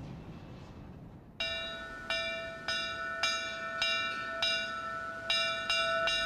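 Bell-like chimes struck one after another, about every half second and a little faster near the end, each ringing on over the next. A fading hiss comes before them; the chimes start about a second and a half in.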